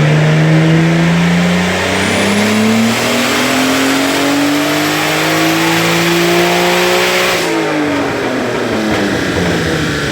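Turbocharged Nissan RB25 NEO straight-six, fitted with a 5858 turbo, revving up steadily under full throttle in a dyno pull, with a faint high whistle climbing alongside. About three-quarters of the way through the revs drop away as the throttle is lifted.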